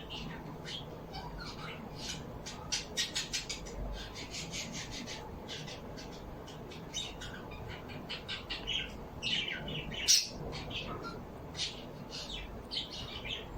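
Small birds chirping and squawking: many short, high calls in quick runs, with a louder squawk about ten seconds in.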